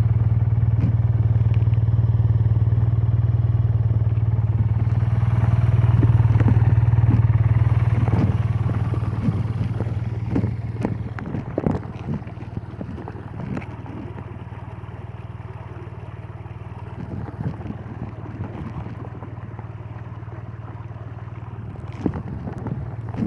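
BMW R12 NineT's air/oil-cooled boxer twin running steadily under throttle on the move. About eight to ten seconds in it drops to a quieter, lighter-load note, with a few sharp cracks from the exhaust as it eases off.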